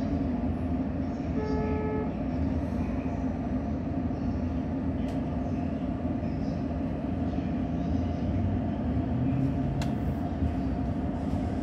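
Tōyō Rapid Railway electric commuter train pulling away and running slowly over the station tracks, heard from the cab: a steady rumble of motors and wheels. A brief pitched tone sounds about a second and a half in, and there are single clicks about five seconds in and again near the end as the wheels cross rail joints and points.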